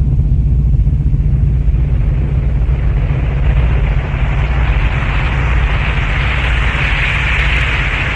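Storm sound: a deep, steady rumble under a rushing hiss that grows louder in the second half, like heavy rain and wind building up.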